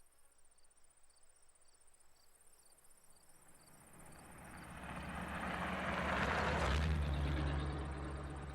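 Crickets chirping in a steady pulsing rhythm while a road vehicle approaches and passes, its engine and tyre noise swelling to the loudest point about seven seconds in and then starting to fade.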